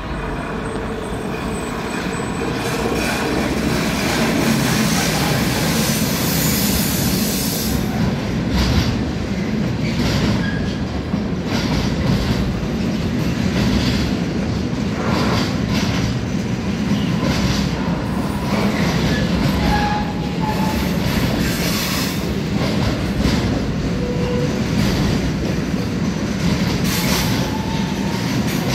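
Intermodal freight train of truck trailers on pocket wagons rolling past, growing louder over the first few seconds as it arrives, then a steady rumble of wheels clattering over rail joints and points, with a few short wheel squeals.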